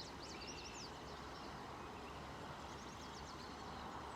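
Small birds twittering in quick high chirps, clustered in the first second and again near the end, over the steady rush of a creek.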